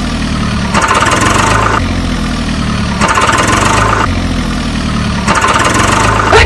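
Truck engine idling in a repeating loop, switching about once a second between a low rumble and a higher, buzzier stretch.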